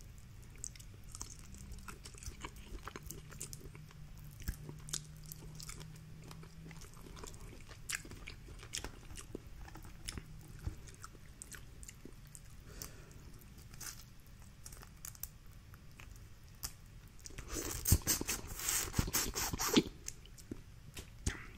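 Close-up eating sounds: wet chewing with scattered small smacks and clicks, then a louder run of crunching and cracking for about two seconds near the end.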